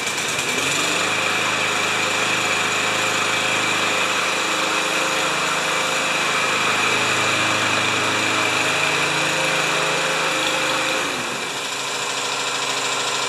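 Troy-Bilt mower's 159cc single-cylinder engine running on a test after a tune-up, speeding up about half a second in, holding a steady higher speed, then slowing back down near the end.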